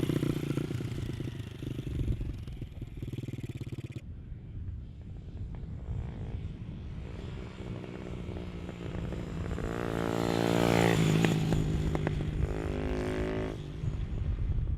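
Hartford HD 125 motorcycle with a Skyteam 200 cc engine and Leo Vince stubby exhaust riding past. The engine note fades away at first; then it builds as the bike approaches, is loudest about two-thirds of the way through, and falls away as it passes.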